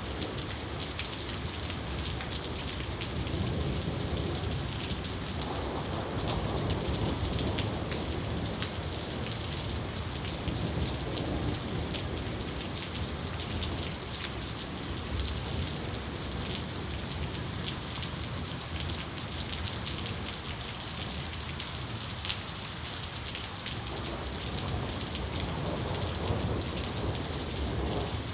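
Steady heavy rain, a dense patter of drops on a surface, with low rolls of thunder swelling a few seconds in and again about halfway through.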